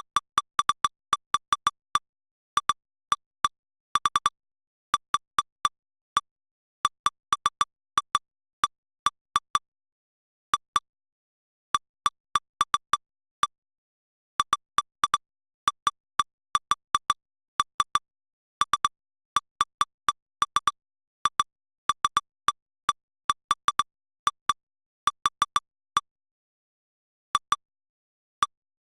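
Short, identical electronic pips from lightning-detection software, one per logged strike as the detector's strike history plays back. They come at irregular intervals, often in quick bunches of two to five, with a pause of about a second near the end.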